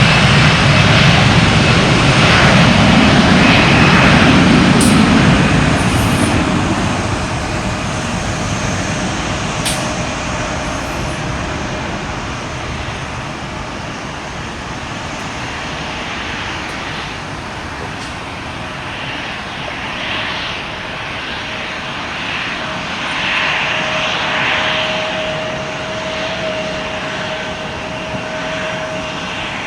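Airbus A321 airliner's jet engines, loud at first and then fading over several seconds to a steady distant rumble.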